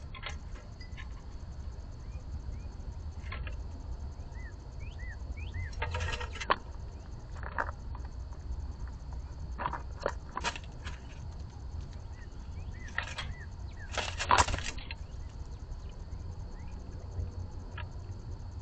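Birds at a feeder: a few small chirps, then several short harsh bursts, the loudest about 14 seconds in, from blue jays and the flapping wings of birds squabbling at the feeder. A steady low hum and a faint high whine sit under it.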